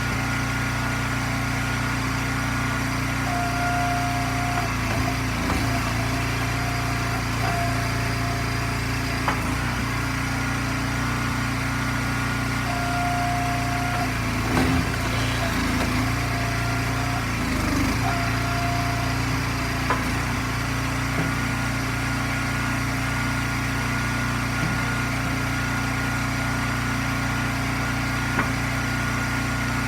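Gas engine of an Eastonmade log splitter running steadily, with a short higher whine that comes and goes several times and a few sharp knocks of wood.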